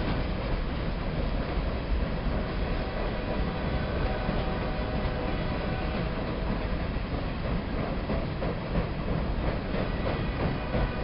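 Tropicana juice train's refrigerated boxcars rolling past across a trestle bridge: a steady rumble of steel wheels on the rails.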